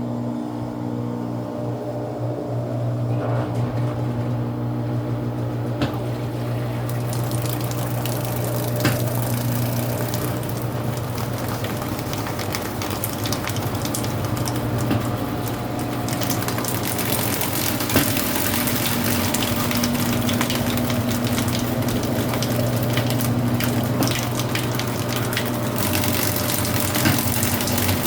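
Brastemp Ative 11 kg BWL11 top-loading washing machine in its intermediate spin: a steady hum from the drain pump and drum as water is pumped out. The hiss of spinning and draining water grows louder about seven seconds in and again around sixteen seconds.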